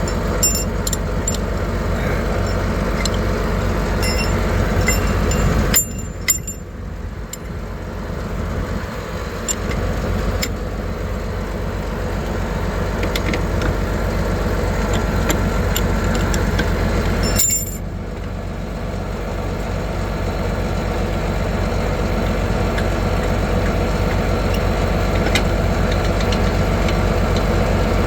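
A vehicle engine idling steadily, with scattered light metallic clinks. The engine sound drops off sharply about six seconds in and again around eighteen seconds in, then builds back up.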